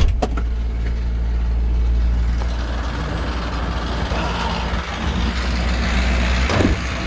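Ford 6.7-litre Power Stroke V8 diesel idling steadily. A rushing noise swells through the middle, and a sharp clunk comes just before the end.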